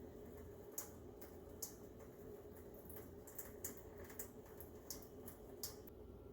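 Faint water trickling from tubing onto a tray of wet sand, with irregular small drips and ticks over a low steady hiss; the ticks stop near the end.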